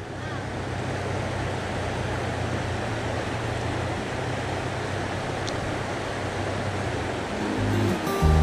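Steady rush of river water flowing around the wader. Music comes in near the end.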